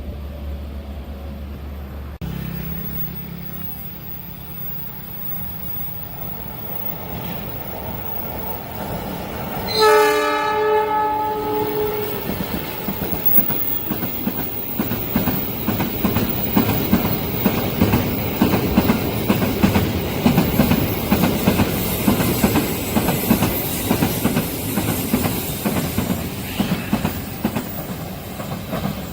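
A train approaching and passing a level crossing: the locomotive's horn sounds once for about two seconds about ten seconds in, then the train passes close by with rapid, repeated wheel clatter over the rail joints. A low engine hum at the start stops abruptly about two seconds in.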